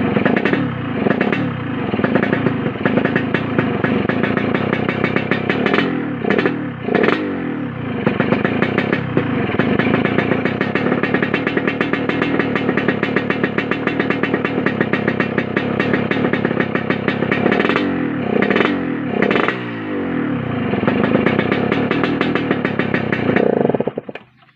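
Yamaha RX-King two-stroke single-cylinder motorcycle engine revving through a kolong-style exhaust with a rough, snoring ('ngorok') note. The revs are held up with a fast, even pulse, and the pitch falls away after throttle blips about a second in, around six to seven seconds in, and again near eighteen to twenty seconds. The engine cuts off abruptly just before the end.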